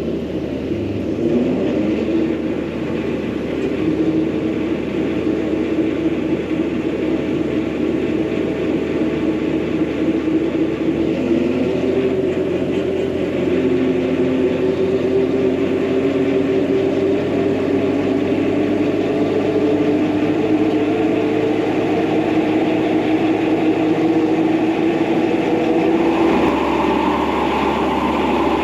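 Bobcat T595 skid steer's diesel engine running steadily while it drives the hydraulic brush mower on its first start-up. The pitch steps to a new level about eleven seconds in and again near the end.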